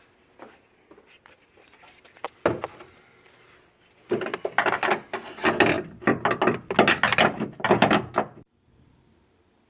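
Knocking and clattering of metal parts and tools as a car's transmission mount is fitted: a single knock about two and a half seconds in, then a dense run of knocks and rattling from about four seconds in that lasts some four seconds.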